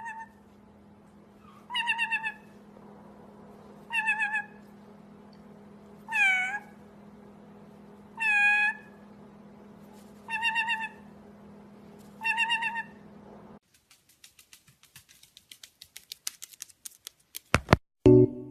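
A parrot meowing like a cat: seven wavering meow calls, one about every two seconds, two of them sliding down in pitch, over a low steady hum. After the last call the hum stops and a run of clicks grows faster and louder, ending in a few sharp clicks.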